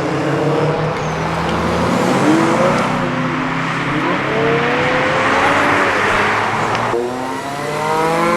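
Modified car engines revving and accelerating as they drive off, with a loud rush of exhaust noise in the middle. Near the end a car's engine climbs steadily in pitch as it accelerates.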